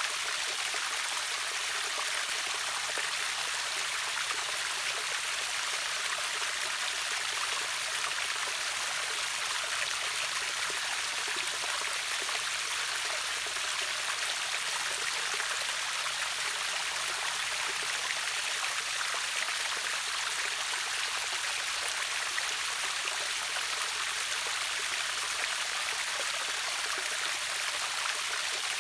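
Steady rush of water from a river waterfall, an even splashing hiss with little deep rumble.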